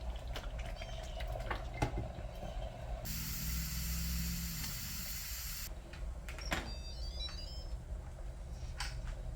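Kitchen sounds: scattered light clicks and knocks, and a steady hiss that starts abruptly about three seconds in and cuts off sharply after about two and a half seconds.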